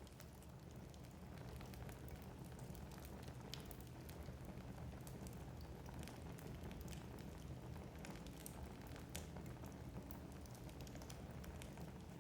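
Wood fire burning in a fireplace: a low steady rumble with frequent small crackles and pops from the logs.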